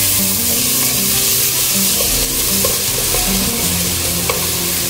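Rice and split black gram frying in oil in a pressure cooker pot, stirred with a wooden spoon: a steady sizzle with the grains scraping and a few light knocks of the spoon against the pot, over background music.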